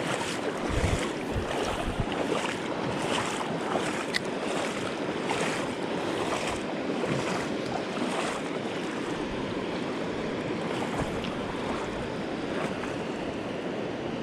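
Mountain river current rushing steadily, with wind buffeting the microphone.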